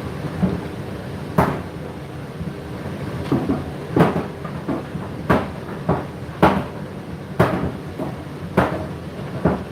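Laundry tumbling in a running washer or tumble dryer drum. The load thuds down roughly once a second, some drops louder than others, over a steady machine hum.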